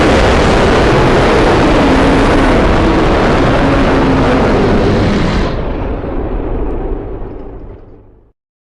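Custom-made monster roar sound effect for Galactus: a long, loud, rumbling roar with pitched growl layers. It loses its top end about five and a half seconds in and fades out near the end.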